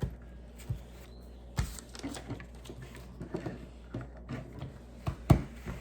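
Plastic Lego pieces clicking and knocking as they are handled and pressed together: an irregular run of small clicks, with one sharper knock about five seconds in.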